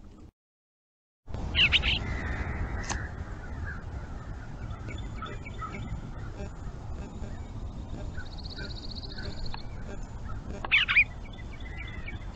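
Birds calling outdoors over a steady low noise, with two loud calls about a second and a half in and again near the end, a high trill about eight seconds in, and fainter calls in between.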